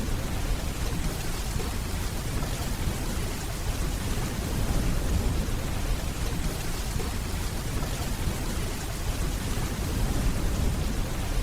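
Steady rainfall, with a continuous low rumble of distant thunder underneath.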